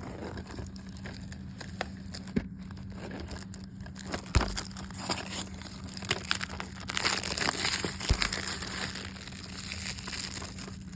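Plastic shrink wrap on a DVD case crinkling and tearing as it is peeled off, in irregular rustles and crackles that are busiest about seven to eight seconds in, with a few sharp knocks from handling.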